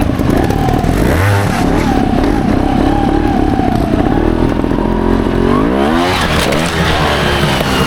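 Trials motorcycle engine running and being revved, its pitch climbing and dropping in quick throttle blips about six seconds in.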